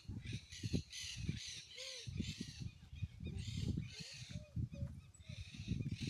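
Birds giving harsh, rapidly repeated calls, crow-like caws, over an uneven low rumbling noise.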